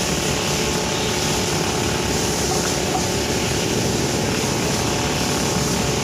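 Brush cutter engine running steadily at working speed while cutting grass.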